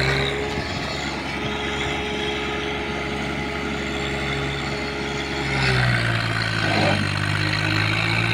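Swaraj 744 tractor's three-cylinder diesel engine running hard under load while pulling a fully loaded trolley. About two-thirds of the way in it gets louder and deeper as it works harder.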